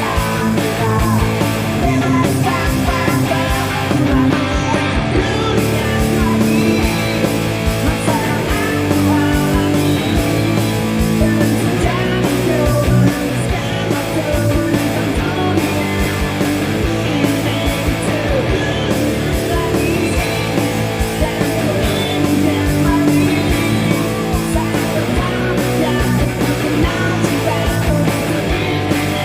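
Ibanez GRX20 electric guitar played with heavy distortion along with a recorded metal song with drums and singing, showing off the aggressive sound of its pickups.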